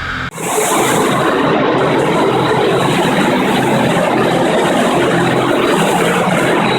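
FastPrep concrete floor grinder running, its diamond grinding plates on the concrete floor giving a loud, steady grinding noise. The sound changes abruptly a fraction of a second in, from a lower hum to the full grinding noise.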